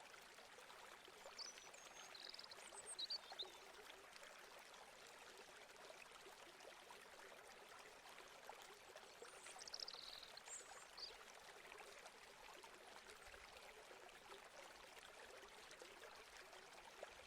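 Faint forest ambience: a steady low hiss with two brief clusters of high-pitched small bird calls, one about a second in and another about nine seconds in.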